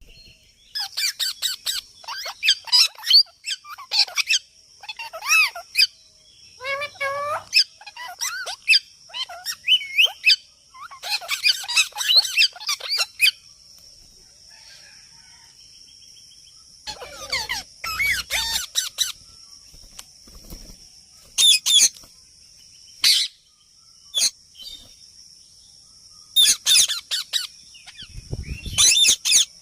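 A parrot calling in irregular bursts of harsh screeches and chirps, some with warbling notes that slide up and down in pitch, with a long lull about halfway through. A faint steady high tone runs underneath.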